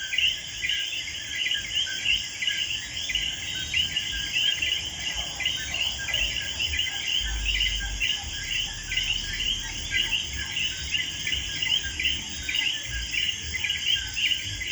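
Birds chirping in quick repeated short notes, several a second without pause, over a steady high-pitched insect drone.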